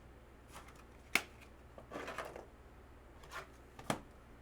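Trading cards being handled: a few light clicks and taps, the loudest about a second in, and a short papery rustle around two seconds in.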